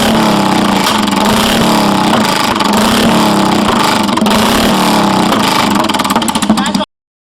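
Royal Enfield Bullet single-cylinder engine running through an aftermarket exhaust, its pitch wavering slightly with the throttle. The sound cuts off suddenly near the end.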